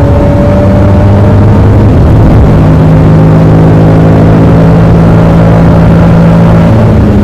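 Honda N-ONE's 660 cc three-cylinder engine running steadily, likely at idle, working harder than usual under the load of the air conditioning. Its note shifts slightly to a new steady pitch about three seconds in.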